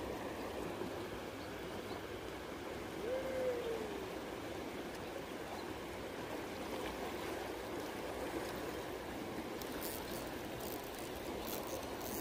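Creek water running steadily over riffles. About three seconds in there is one short whistle-like note that rises and then falls.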